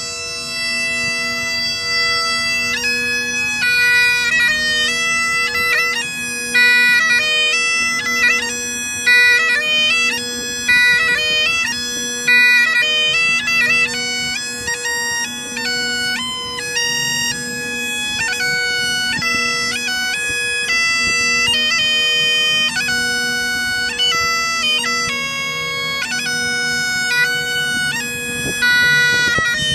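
Bagpipes playing a tune: a steady drone underneath a chanter melody that moves through quick note changes.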